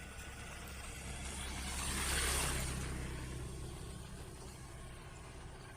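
A motor vehicle drives past: engine and tyre noise swell to a peak a little over two seconds in, then fade away, over a low engine hum.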